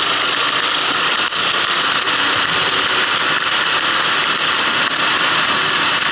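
Kart engine running steadily while the kart drives on a wet track, heard from on board as a dense, even noise with no clear change in pitch.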